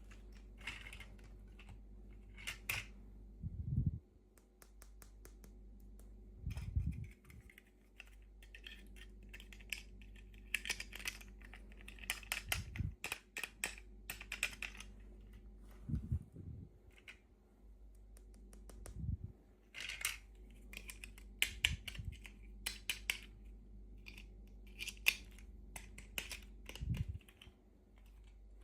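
Hands unboxing and handling small plastic toys and packaging, giving scattered clicks and rustles with a few soft low thumps.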